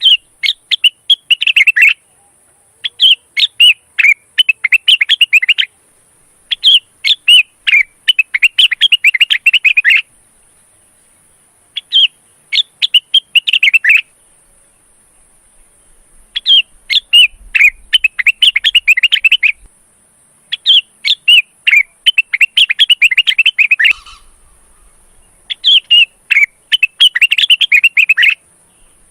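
Male lesser green leafbird (cucak wilis, rengganis) singing in breeding condition: seven loud phrases of rapid, varied chirping notes, each lasting a few seconds, with short pauses between them.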